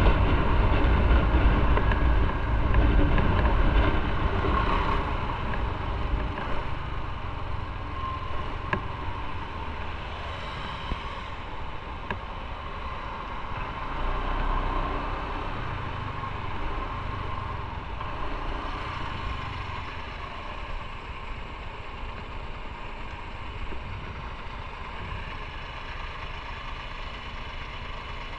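Motorcycle engine running on the move, getting quieter over the first ten seconds or so and then running steady and low, as when the bike slows toward idle.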